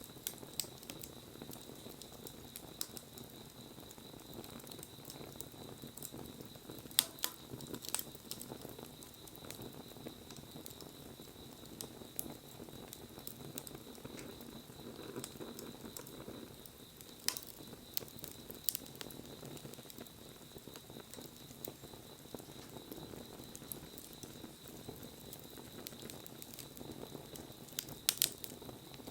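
Wood fire burning with a steady low hiss and scattered crackles and pops, one sharp pop about seven seconds in and a quick cluster near the end. A faint steady high tone lies underneath.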